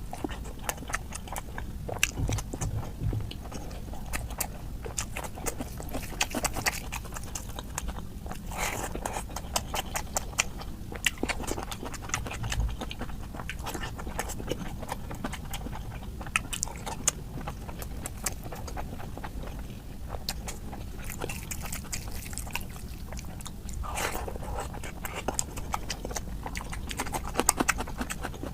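Close-up eating sounds: wet chewing and lip smacking, with frequent small clicks, of someone eating egg curry with rice.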